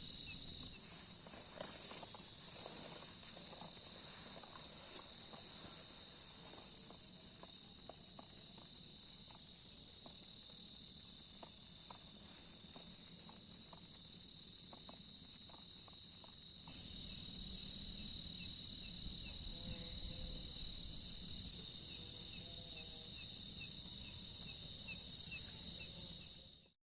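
Forest insects, crickets among them, keeping up a steady high chirring chorus with a quicker repeated chirp underneath. A few light clicks and rustles come in the first few seconds. The chorus gets louder about two-thirds of the way through, then cuts off abruptly just before the end.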